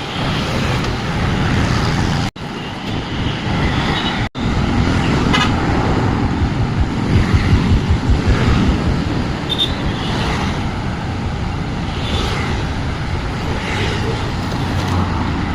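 Busy road traffic passing close by, with a steady rumble of engines and tyres and a few short vehicle horn toots. The sound cuts out briefly twice, about two and four seconds in.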